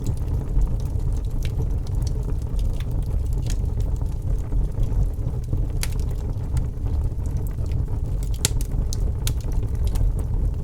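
Wood fire burning in a fireplace: a steady low roar of the flames with scattered sharp crackles and pops from the logs, several close together a little past the middle.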